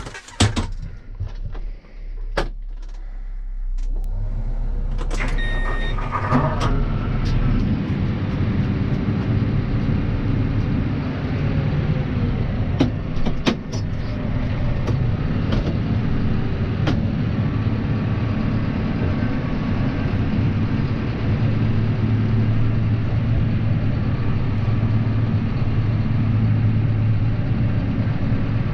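Claas Arion 530 tractor's diesel engine starting about four seconds in after some clicks and knocks, then running steadily. A short beep sounds just after the start, and occasional clicks run over the engine.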